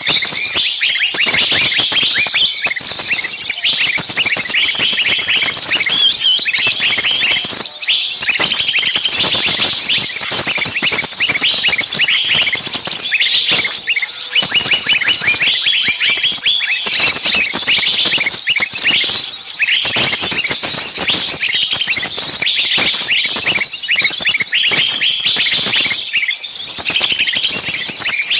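A dense, continuous chorus of small songbirds chirping and calling rapidly over one another. It is a bird-lure recording of noisy, agitated calls meant to draw small birds in.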